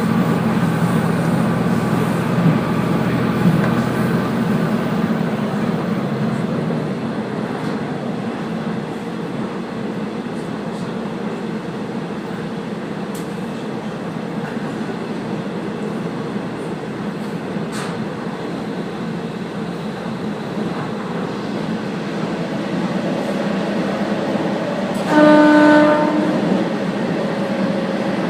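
Steady running noise of a Kazekko diesel railcar under way: engine and wheels on the rails, easing off slightly after the first several seconds. About 25 seconds in, a train horn blows once for just over a second.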